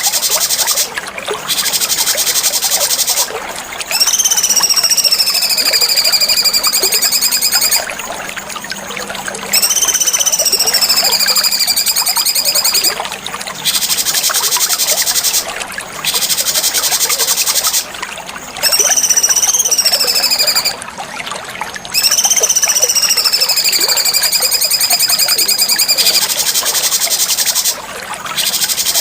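Cucak cungkok songbird song recording: four long whistled notes, each sliding down and then held, come between blocks of fast, high chattering trills. A steady trickle-like hiss runs underneath.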